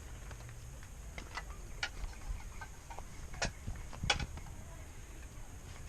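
A few separate light clicks and knocks, spaced irregularly about half a second to a second and a half apart, over faint background rumble.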